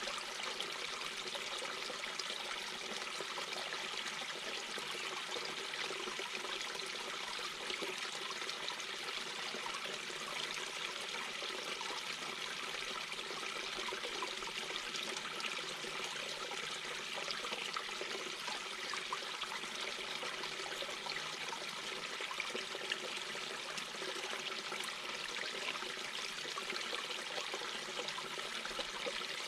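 Mountain brook babbling steadily over rocks, a continuous gurgling rush of water.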